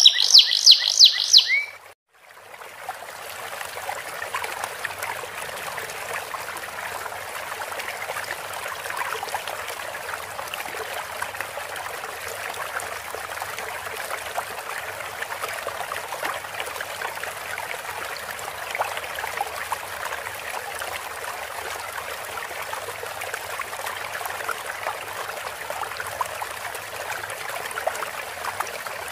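Domestic canary singing a rapid chirping song that cuts off abruptly about two seconds in. A steady trickling of running water, a relaxing water-sound track, follows for the rest.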